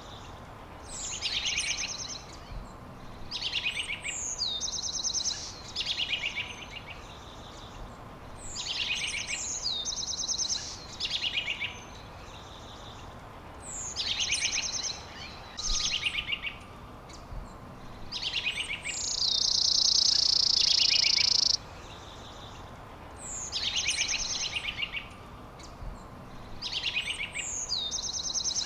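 Songbirds singing: short, rapid trilled phrases repeat every two to three seconds over a steady background hiss. About two-thirds of the way through comes a louder, even buzzing trill that lasts a couple of seconds and then stops abruptly.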